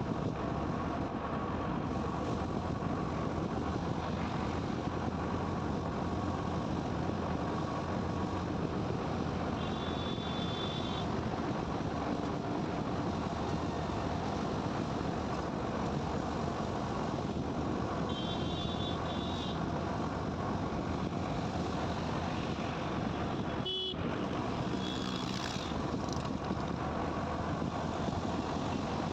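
Steady riding noise on a motorcycle at highway speed: engine, tyres and wind in one even rush. Short high-pitched horn beeps sound three times, the first about a third of the way in and the last near the end, with one sharp click shortly before the last.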